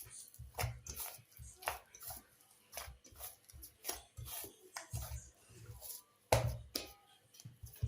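Irregular soft thumps, clicks and rustles of hands handling dough and kitchen things, with a louder knock a little past six seconds in.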